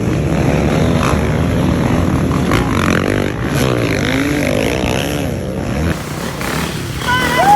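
Dirt bike engine revving up and down hard through the gears, its pitch rising and falling repeatedly. Near the end the sound changes abruptly and a loud, high, sliding whistle-like call cuts in.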